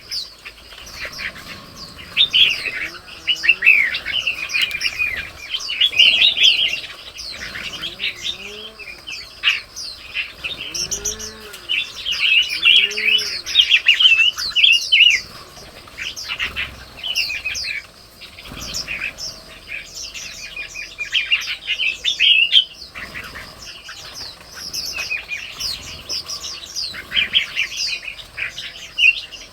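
Red-whiskered bulbuls and other birds chirping and calling in a dense, overlapping chorus of quick high notes. A few low, soft arched calls come in between about three and thirteen seconds in.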